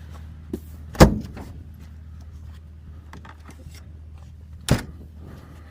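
Two loud knocks, the first about a second in and the second near the end, with a faint click just before the first, over a steady low hum.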